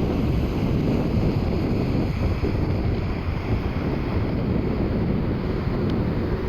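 Steady rumble of jet aircraft engines with wind buffeting the microphone.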